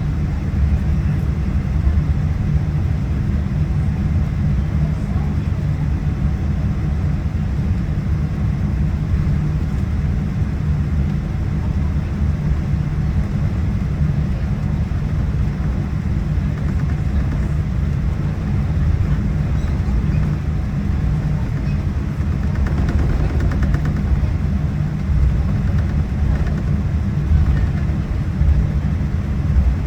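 Steady low rumble of a Boeing 787-9's cabin on the ground, from the aircraft's engines and air systems.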